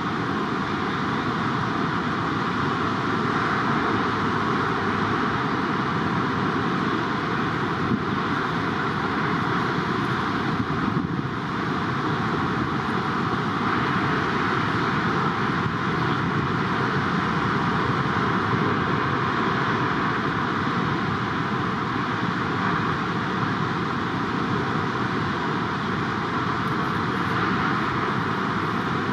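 Steady roar of heavy ocean surf, with no distinct breaks or pauses.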